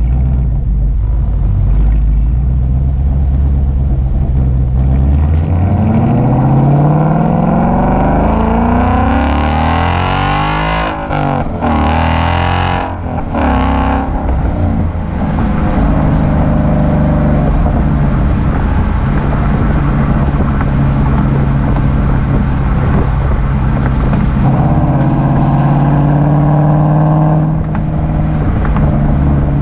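A Ford Mustang GT's 5.0-litre V8 through a Corsa Extreme cat-back exhaust, driving. A few seconds in it accelerates, its pitch climbing steadily for several seconds, then it settles into a steady low drone at cruise.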